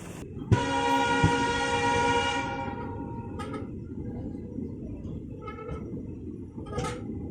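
Train horn sounding one long, steady blast of about two and a half seconds, then fading, over the low rumble of the train running.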